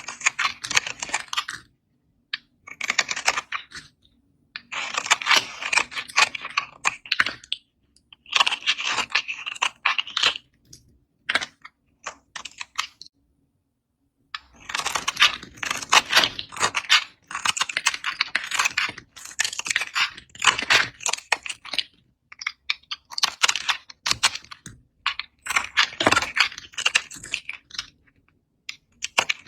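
Knife cutting through dry coloured soap: crisp crackling in runs of one to three seconds, with short pauses between cuts and a longer pause about halfway through.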